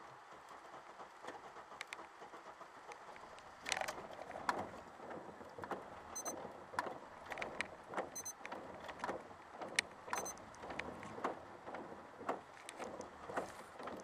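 Car engine idling quietly just after a cold start on a nearly dead battery, heard from inside the cabin, with many irregular clicks and taps. Three faint, short high beeps come about two seconds apart in the middle.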